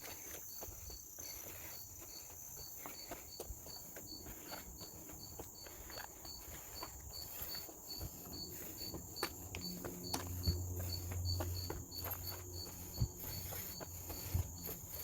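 Forest insects calling: a steady high buzz with a regular high chirp about three times a second, over footsteps on a trail. A low rumble comes in during the second half.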